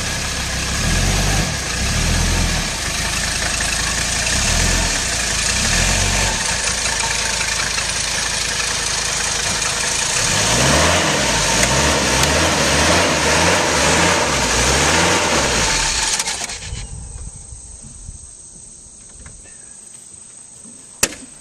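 1985 Mercedes diesel engine running on waste French fry oil while the car reverses, its note rising and falling, then shut off about sixteen seconds in. A couple of sharp clicks near the end.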